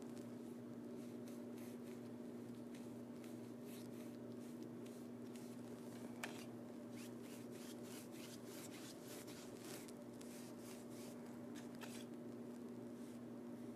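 Paintbrush strokes scratching and rubbing across a painted backdrop in quick, irregular strokes, over a steady low electrical hum. One sharp tick about six seconds in.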